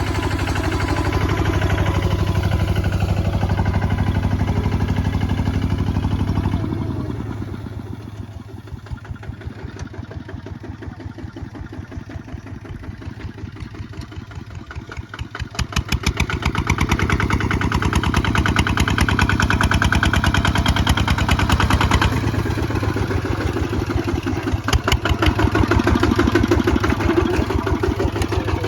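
Kubota ZT155 single-cylinder diesel tractor engine running hard, then easing to a slower, quieter run about seven seconds in, with each firing stroke heard separately, before speeding up again about halfway through and running hard to the end.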